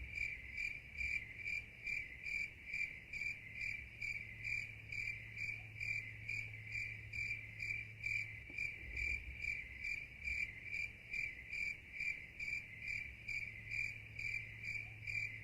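Insects chirping in a steady, even rhythm of about two high-pitched pulses a second, over a low steady hum.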